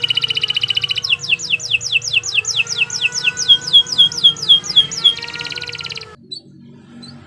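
Domestic canary singing: a rapid trill, then a series of falling whistled notes, about four a second, then another fast trill before the song breaks off about six seconds in.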